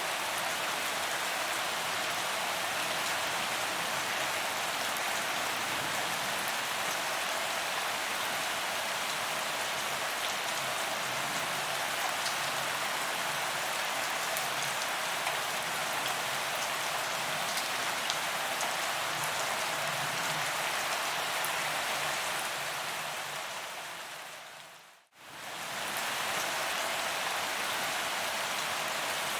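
Steady rain falling on a paved sidewalk: an even hiss flecked with the ticks of single drops striking the ground. About 25 seconds in the sound fades out to near silence and quickly fades back in, an edit where the recording loops.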